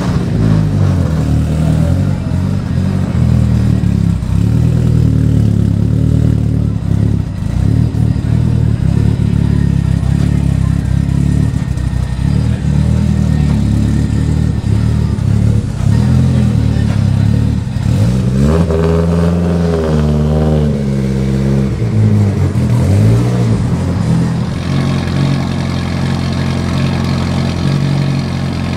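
800 hp Mitsubishi Lancer Evolution X time-attack car's engine idling loudly and unevenly through its side-exit exhaust. About two-thirds of the way in come a few throttle blips that rise and fall in pitch. In the last few seconds the 700 hp Subaru Impreza WRX STi time-attack car's engine idles more steadily.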